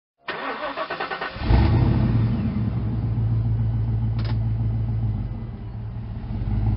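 Car engine cranked by its starter, catching about a second and a half in and settling into a steady idle, with a single short click about four seconds in.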